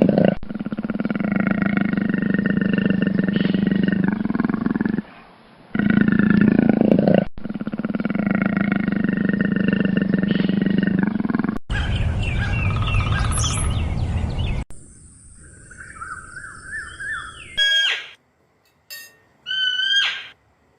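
A string of different animal calls cut one after another. A long, loud, roar-like call runs through the first half and breaks off briefly. After it come shorter, higher calls with quick rises and falls in pitch.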